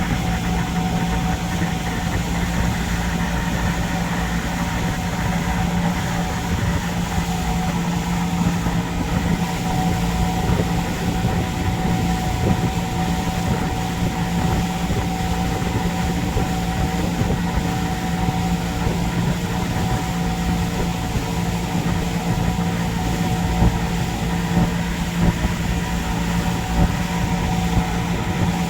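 Boat engine running steadily under way, heard from on board: a constant drone with a steady hum over a rushing noise.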